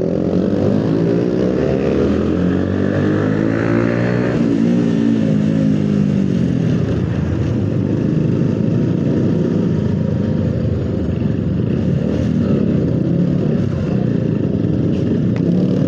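Motorcycle engines with modified aftermarket exhausts running loudly on the road. The engine pitch slides up and down over the first several seconds, then the running settles into a steady drone.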